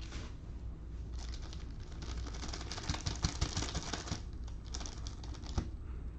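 Trading card packs and cards being handled: rapid clicking and crinkling of cards and pack wrappers as they are opened and flipped through. The sound is densest from about one to four seconds in, with a shorter spell about five seconds in.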